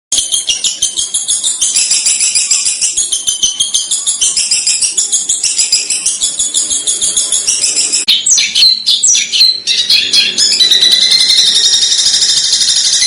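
Songbird song of the kind used as a masteran tutor recording: a fast, dense run of sharp, harsh high-pitched 'tembakan' notes. About eight seconds in it breaks into a burst of varied sweeping calls, then settles into a steadier high trill.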